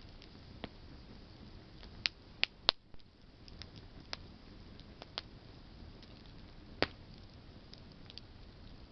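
Campfire of burning branches crackling: irregular sharp pops and snaps over a faint steady hiss, with three loud snaps in quick succession about two seconds in and another loud one near the end.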